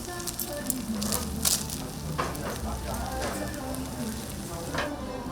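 Food sizzling steadily over high heat, with scattered crackles.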